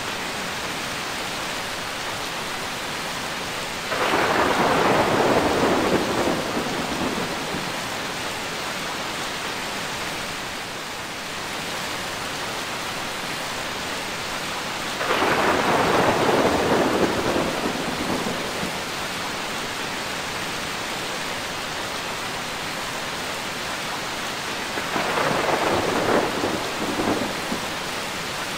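Steady rain falling, with three rolls of thunder that each swell up and die away over a couple of seconds, about ten seconds apart.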